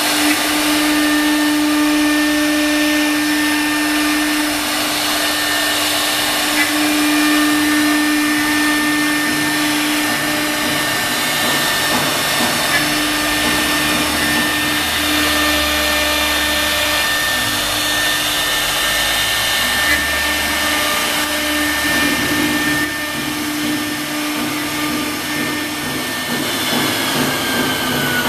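CNC wood router spindle running at a steady speed with a high whine. Near the end the whine falls in pitch as the spindle slows.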